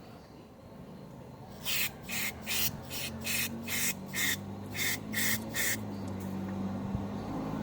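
Aerosol cleaner sprayed into a fuel injector in about ten short, quick hissing bursts, roughly two or three a second, flushing it out.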